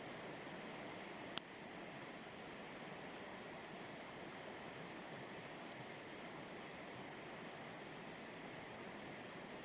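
Steady rush of water from a river rapid, with a single pop from the campfire about a second and a half in.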